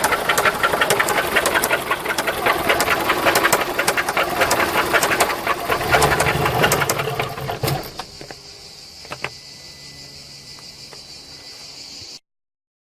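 Volkswagen Golf 3 engine running with a rapid, dense knocking and clattering: the abnormal engine noise. About eight seconds in it shuts off, leaving a faint steady high tone and a single click.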